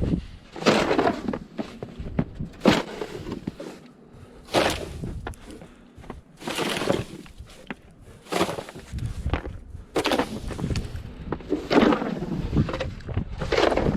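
Repeated crunching noises in snow, about one every two seconds, each lasting around half a second.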